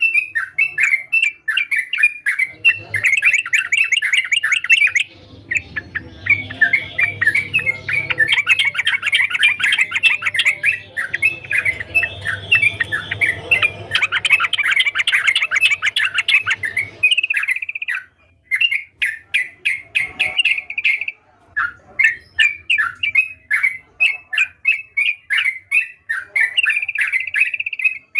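Yellow-vented bulbul (trucukan) singing vigorously: a continuous run of rapid chirps and short whistled phrases, with a low hum underneath through the middle stretch.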